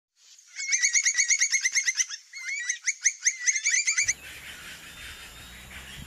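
A campo troupial calling: a fast run of short chattering notes, about eight a second, with a brief break partway. A little after halfway the birdsong cuts off and a faint steady hiss with a low hum follows.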